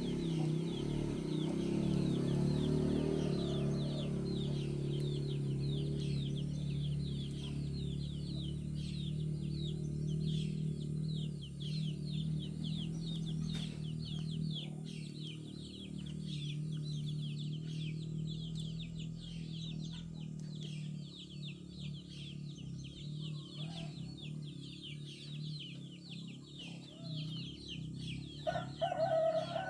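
Farmyard chickens clucking and murmuring low and steady, under a dense stream of high, rapid chirping from small birds. Near the end one hen gives a louder, drawn-out call.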